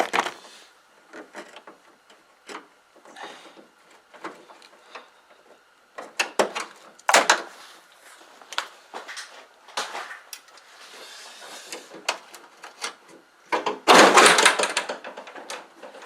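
Scattered clicks, knocks and rattles of metal hardware being handled while hood latches are fitted to a 1972 Sno-Jet snowmobile. About fourteen seconds in there is a louder, clattering clunk.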